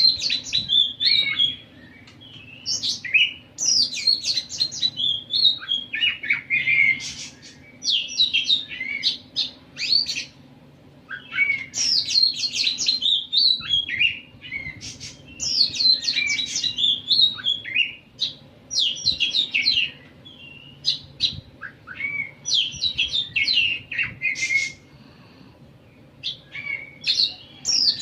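A songbird singing vigorously and almost without pause, in repeated bursts of fast, high chirps and trills. Each phrase lasts a second or two, with short gaps between them.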